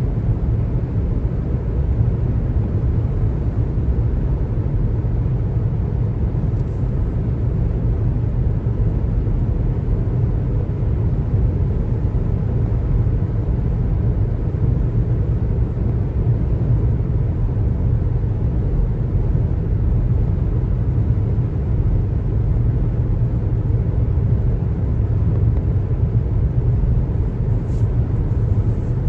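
Steady road noise of a car driving at highway speed: an even low rumble of tyres and engine.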